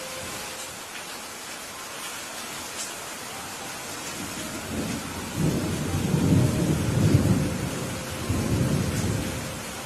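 Steady rain with a roll of thunder that builds from about four and a half seconds in, rumbles loudest near the middle and fades away near the end.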